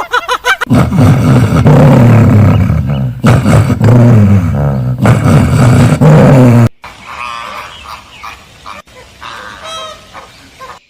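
Loud, low calls of a large animal, three long calls in a row, cut off about two-thirds in and followed by quieter, higher chirping calls.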